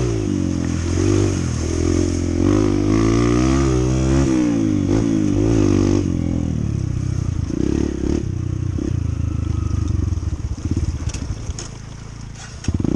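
Honda CT125's single-cylinder four-stroke engine running under load on a trail, its revs rising and falling again and again. Near the end it drops off briefly, with a few sharp clicks, then picks up again.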